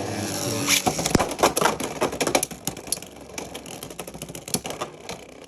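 Beyblade X spinning tops launched into a plastic stadium and clashing: a steady launcher whine cuts off with a sharp click just under a second in, then comes a fast run of sharp plastic clacks and knocks as the tops collide, thinning out toward the end.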